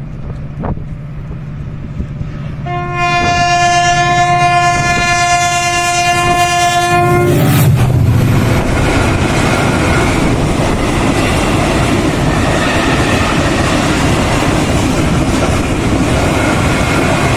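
Freight train passing close by: the locomotive sounds one long horn blast of about four and a half seconds, then the train goes past with a loud, steady rumble and clatter of wheels and wagons on the rails.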